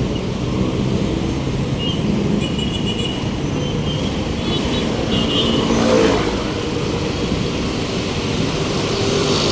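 City road traffic heard from a bicycle: the steady rumble of car and truck engines and tyres passing close by, with a few brief high squeaks between about two and five seconds in.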